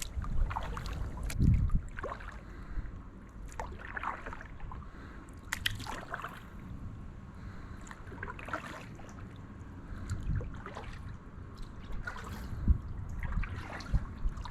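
Kayak paddle strokes dipping into calm water, with small splashes and drips at irregular intervals of a second or two.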